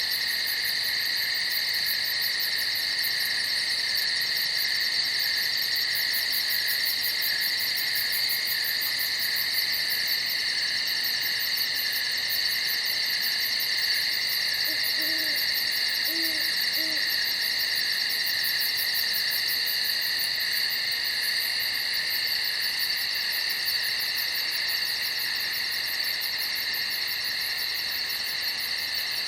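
Night chorus of crickets chirping continuously in a steady, high trill. About halfway through, three short, faint hoots sound low beneath it.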